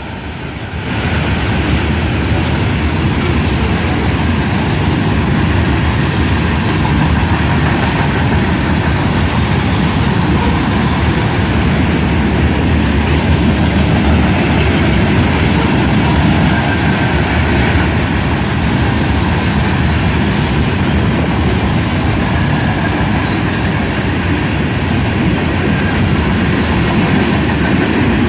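Train cars rolling past at speed, their wheels clattering steadily over the rail joints.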